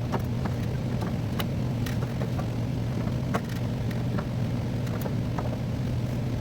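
Steady low machine hum with scattered light clicks and taps.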